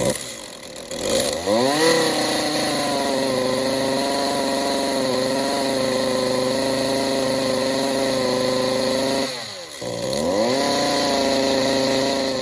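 Stihl MS 192T top-handle chainsaw's two-stroke engine running. It picks up speed about two seconds in and holds a fast, steady run, then sags nearly to a stall about nine and a half seconds in and picks back up. The saw will not settle to an idle, a fault the owner puts down to a clogged spark arrestor screen.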